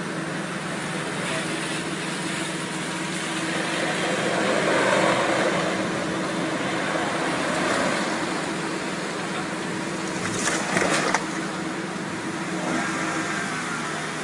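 Steady vehicle noise: a running car with a constant low hum and road rush. About ten seconds in comes a brief cluster of sharp knocks.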